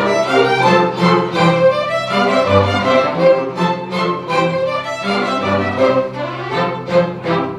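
Chamber orchestra strings playing: violins over a held low cello line, with repeated bowed notes.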